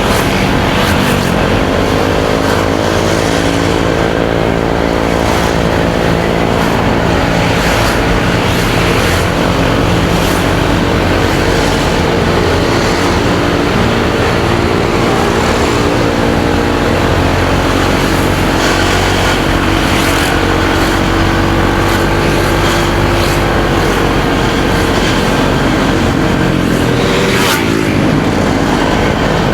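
Motorcycle engine running under way on the road, with wind and road noise. Its pitch falls just after the start, holds fairly steady, and dips and climbs again near the end.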